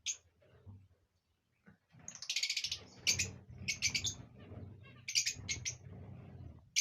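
Lovebirds chattering in clusters of short, sharp high chirps, with a dense buzzy run of calls about two seconds in. These are calls of the kind played as breeding calls to get rosy-faced and Fischer's lovebirds to pair and mate.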